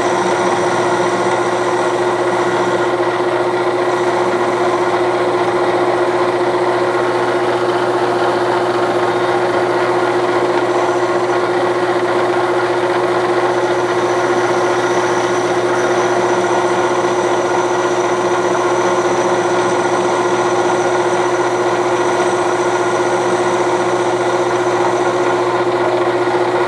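Clausing Colchester 1340 geared-head metal lathe running steadily with its spindle at 570 rpm, a constant hum with one steady whine over the gear noise.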